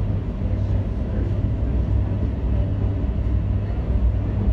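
Electric commuter train running at speed, heard from inside the carriage: a steady low rumble.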